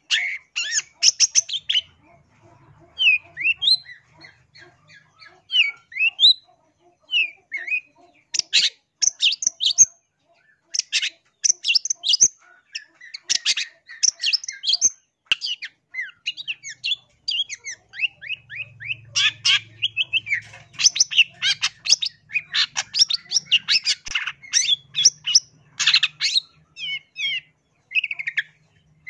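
Long-tailed shrike (cendet) singing: quick runs of harsh, scratchy chattering notes mixed with short rising whistles. There is a sparser stretch of scattered whistled notes a few seconds in, then dense chattering again.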